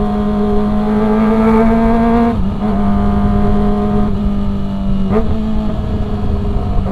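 Kawasaki ZX-25R's 249 cc inline-four engine running under way at a steady mid-range throttle, its note climbing slightly then dropping about two and a half seconds in, with a brief dip and recovery about five seconds in. A low rumble of wind and road noise lies underneath.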